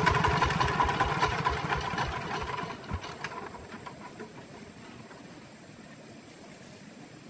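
Truck engine idling with a regular beat, then winding down and stopping about three seconds in with a last thump. A faint hiss remains.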